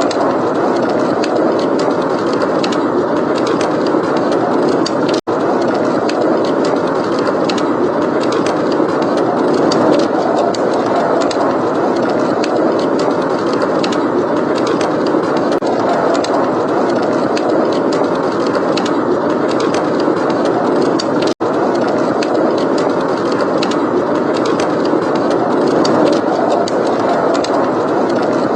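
Steady blizzard wind with a log fire crackling: an even rushing noise with many small, sharp crackles over it. Twice, about five seconds in and again near twenty-one seconds, the sound drops out for an instant.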